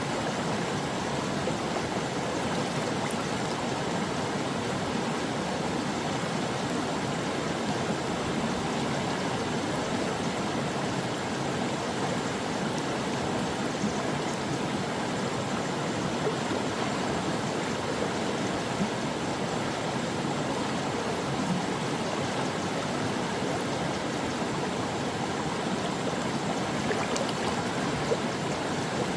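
Shallow stream of a mountain valley running over rocks: a steady rush of flowing water with small gurgles and splashes.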